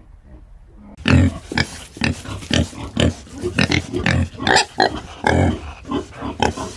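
A large animal calling in a rapid series of short, noisy, pig-like calls, several a second, starting suddenly about a second in.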